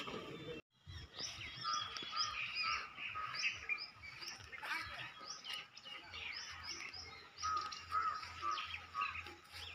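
Birds chirping: many short, quick, overlapping calls that go on without a break.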